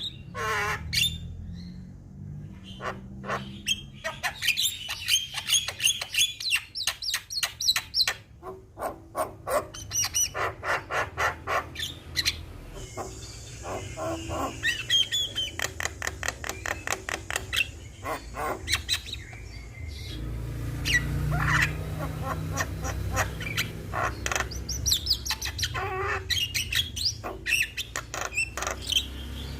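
Javan mynas calling: rapid runs of short, sharp chattering notes mixed with brief whistled calls, over a low background rumble.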